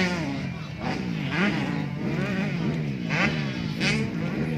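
Motocross dirt bike engines revving hard, their pitch climbing and dropping in quick repeated sweeps as the bikes run the track, with a few louder, harsher bursts of throttle.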